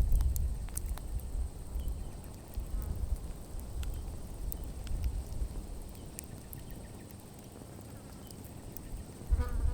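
Wood campfire crackling with scattered sharp pops over a low rumble. The rumble dies away in the middle and comes back strongly near the end.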